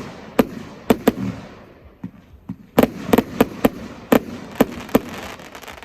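Fireworks bursting overhead: a few sharp bangs in the first second or so, then a quick volley of about eight bangs between about three and five seconds in, with crackling between them.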